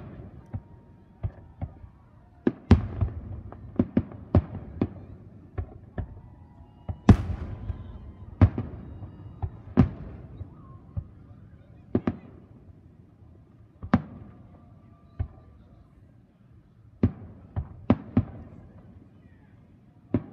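Aerial fireworks display: a string of shell bursts going off at irregular intervals, each boom trailing off. The bursts come thickest in the first half, ease off for a moment, then return in a quick cluster near the end.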